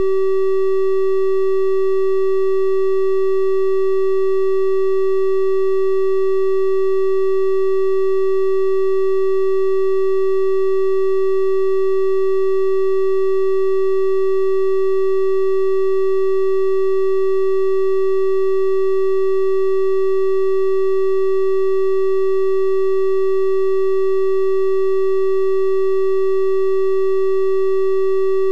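A steady electronic 384 Hz triangle-wave test tone, held unbroken at one pitch with faint higher overtones.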